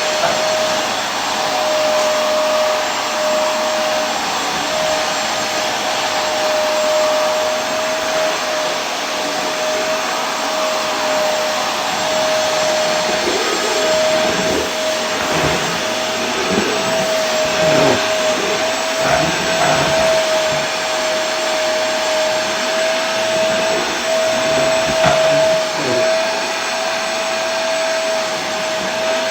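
Vacuum cleaner running continuously, a steady motor whine with a single held tone over a constant rush of air.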